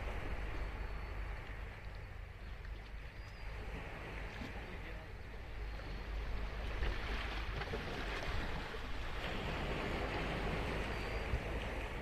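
Ocean surf breaking and washing up a sandy beach, swelling louder about halfway through.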